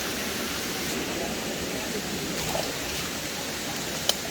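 Steady rush of flowing stream water, with one sharp click near the end.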